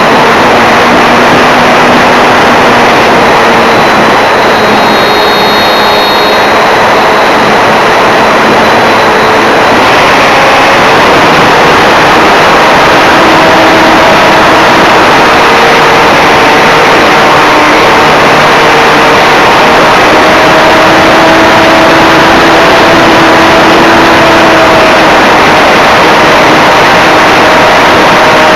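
Electric RC Cessna 182 heard from its onboard camera in flight: loud, steady wind rush over the microphone, with the faint whine of the brushless motor and propeller shifting slowly in pitch as the throttle changes.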